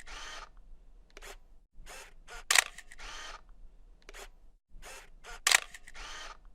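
Camera shutter sound repeating about every three seconds: a few light clicks, one sharp shutter click, then a short rushing sound like film winding on.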